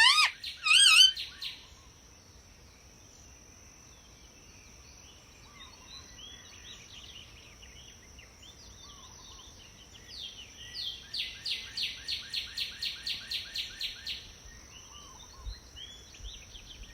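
Indian ringneck parakeet calling: a few loud warbling whistles at the start, soft scattered chirps, then a quick run of about a dozen sharp calls, roughly four a second, for a few seconds past the middle. A faint steady high tone sits underneath.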